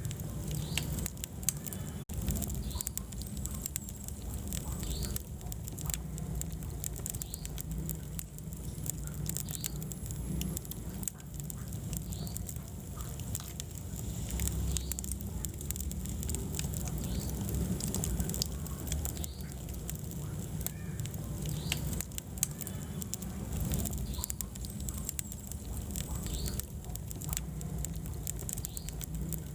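Wood fire burning in a fireplace: a steady low rumble of flames with frequent short, sharp crackles and pops.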